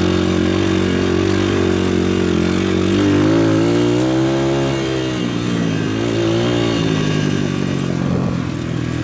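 PitPro 140cc pit bike's single-cylinder four-stroke engine running under way, revving up about three seconds in and easing off again, then a shorter rev a little later.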